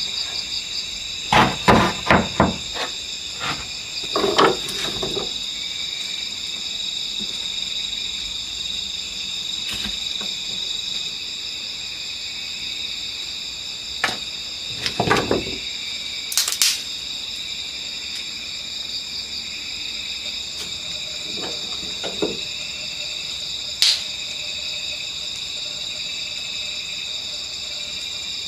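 Steady chorus of night insects such as crickets, holding several high tones, broken by a few short bursts of knocking and clattering: a cluster near the start, another around the middle, and single knocks later on.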